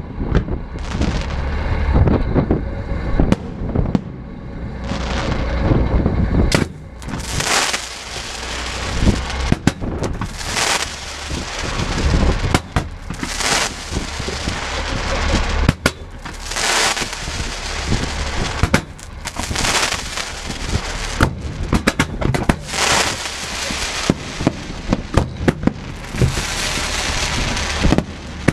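Fireworks display: aerial shells bang again and again. From about seven seconds in, bursts of crackling hiss come every few seconds, each lasting about a second.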